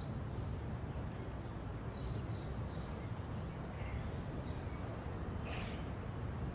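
Outdoor ambience: a steady low rumble with short bird chirps coming several times, a cluster of three about two seconds in and another near the end.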